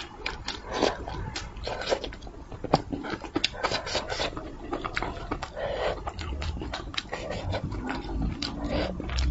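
Close-miked eating sounds: wet chewing and lip-smacking, with many irregular sharp mouth clicks, as a woman chews spicy braised fish.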